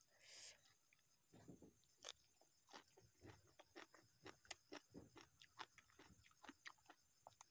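Quiet close-miked eating: chewing with many short wet clicks, several a second, from a mouthful of raw vegetables and sambal and from fingers working sticky rice.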